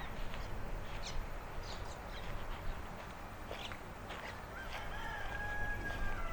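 A rooster crowing once, a long drawn-out call starting about four and a half seconds in, after scattered short chirps of small birds.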